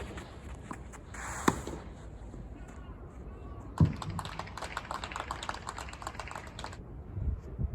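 Two sharp tennis racket hits on the ball, a little over two seconds apart, then about three seconds of rapid scattered clicks mixed with voices.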